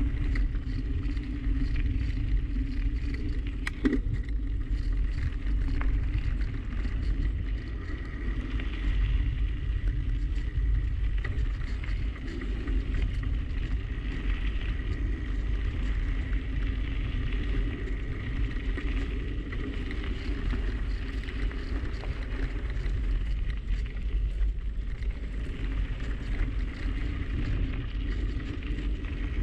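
Wind rumbling on an action camera's microphone over the steady road noise of a bicycle riding along, with a single click about four seconds in.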